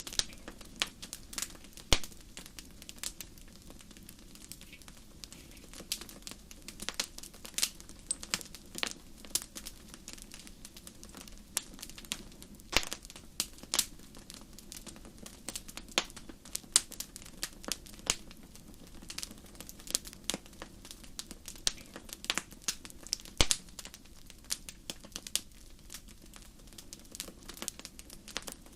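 Wood fire burning in a fireplace: irregular crackles and sharp pops of burning logs over a low steady rumble of flame.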